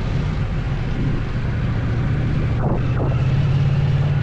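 Motorcycle engine running steadily while riding, its note a little louder in the second half.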